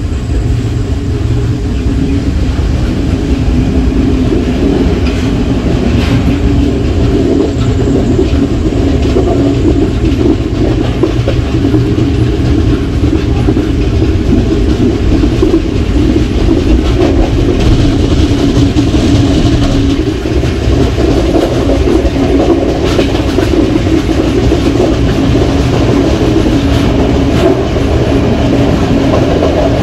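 Passenger train running along the line, heard from its rear carriage: a steady, loud rumble of wheels on track, with clicks of the wheels over the rail joints now and then.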